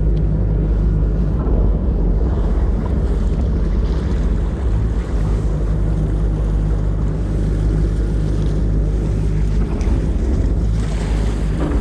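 Boat engine running steadily at low speed while manoeuvring, under heavy wind buffeting the microphone.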